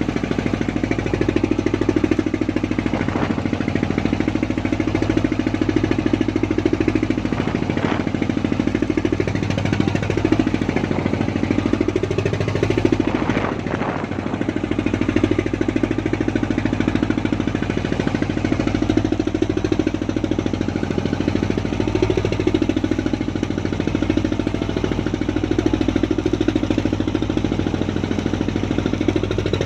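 Fishing boat's engine running steadily with a fast, even knocking beat.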